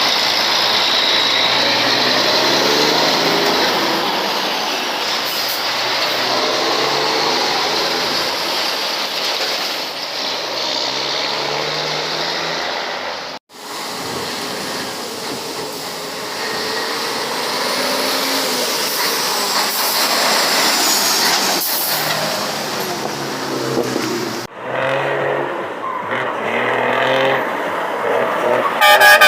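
Truck diesel engines running under load and revving, their pitch rising and falling, in several clips joined by two abrupt cuts, about halfway and near the end.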